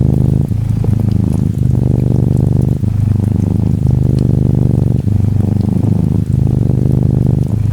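Norwegian Forest Cat kitten purring: a steady, fast-pulsing low rumble with a short break every second or two as its breathing turns. Faint patter of gentle rain over it.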